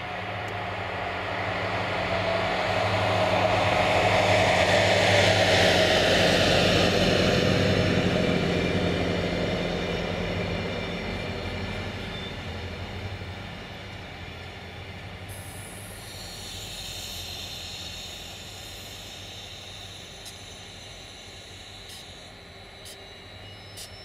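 Electric-locomotive-hauled passenger train passing: a swelling rumble with a whine that drops in pitch as the locomotive goes by, then the coaches rolling past more quietly. A thin high squeal and a few sharp clicks come near the end.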